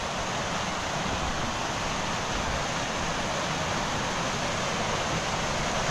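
Strong wind buffeting the microphone: a steady rushing hiss with an uneven low rumble underneath.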